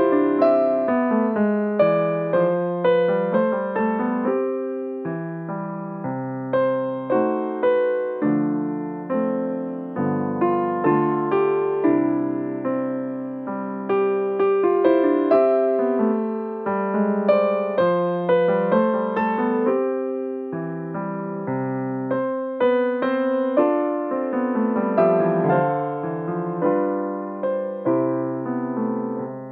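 Piano playing chords and a melody, each note struck sharply and then fading.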